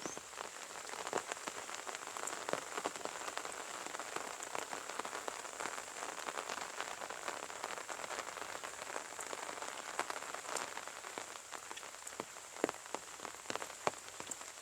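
Steady rain falling, with individual drops heard as scattered sharp ticks close by.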